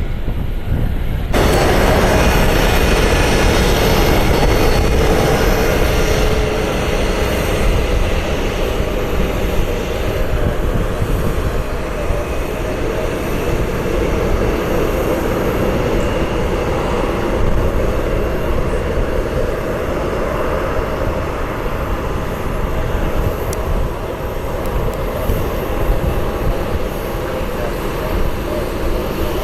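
Jet airliner engines running loud and steady, a dense rush that comes in abruptly about a second in, with a faint whine that slides slightly lower in the first few seconds.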